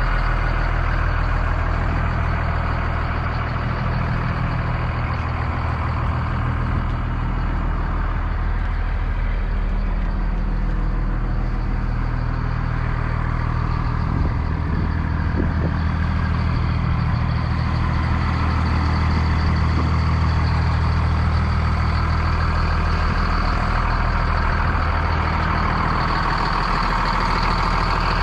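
Caterpillar C7 diesel engine of a Blue Bird All American school bus running steadily at an even speed, with a faint steady high-pitched tone over it.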